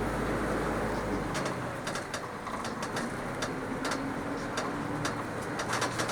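PAZ bus engine running under way, heard from inside the cabin, with the body and fittings rattling in many sharp clicks. The deepest part of the engine drone drops away about a second and a half in.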